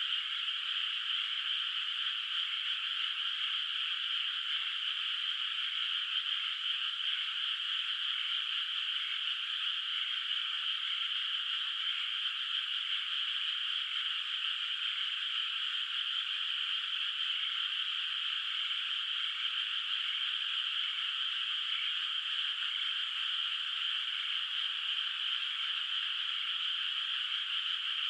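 Dense chorus of many frogs calling together from a flooded rice paddy. The calls overlap into one steady, unbroken wall of sound, with no pauses or single standout calls.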